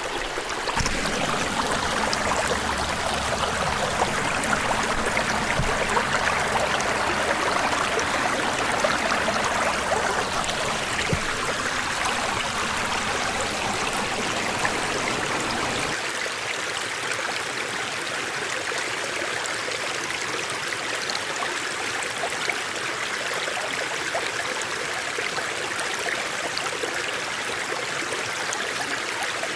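Small mountain stream rushing and babbling steadily over stones. A low rumble lies under it for the first half and stops about halfway through.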